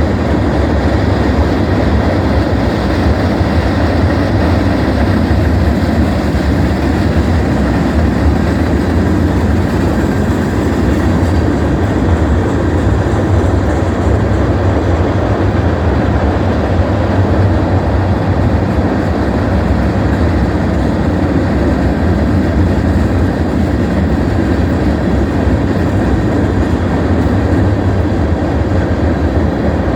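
Union Pacific freight train of empty gravel cars rolling past, a steady loud rumble that does not let up.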